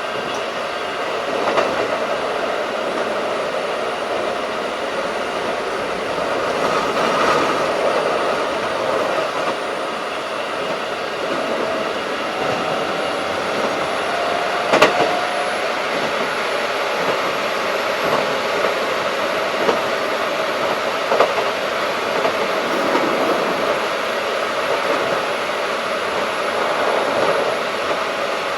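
Keikyu 1500 series field-chopper electric train running at speed, heard from inside the car: a steady rumble of wheels and motors with a few sharp rail-joint clicks. About halfway through, a faint tone rises briefly.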